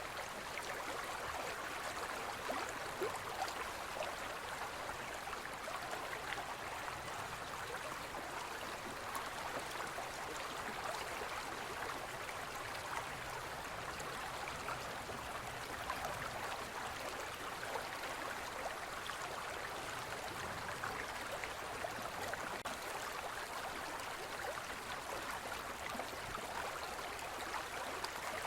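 Shallow forest stream flowing steadily, an even splashing and babbling of water over stones.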